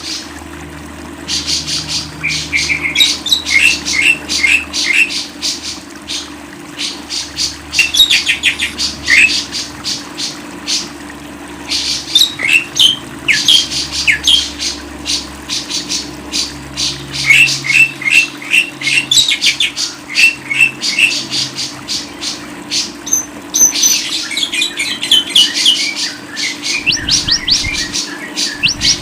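A caged songbird chattering and singing in long, fast bouts of high chirps and trills, with short pauses between bouts, over a faint steady low hum.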